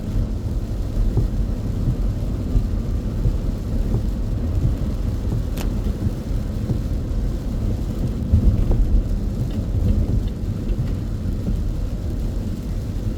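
Car driving on an expressway in heavy rain: a steady low rumble of road and tyre noise, with rain on the car. One sharp click about five and a half seconds in.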